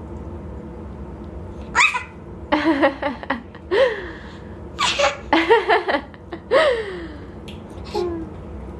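Laughter in a series of short, pitched bursts of giggling, starting about two seconds in and breaking off near the end.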